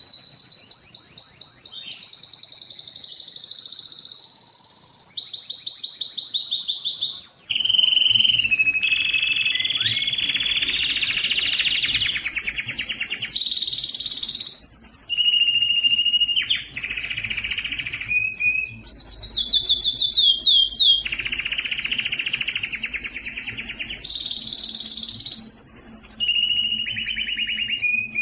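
Domestic canary singing a long, unbroken song: fast trills of rapidly repeated notes in phrases of one to two seconds, each switching to a new pitch, some high and some lower.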